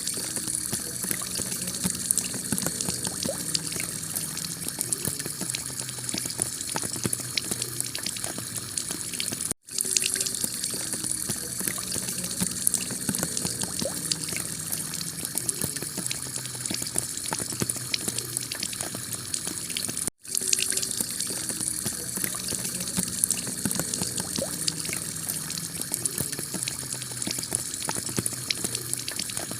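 Heavy rain pouring onto a clay-tile roof: a steady hiss of falling water with a dense patter of drops. It cuts out for a split second twice, about every ten seconds.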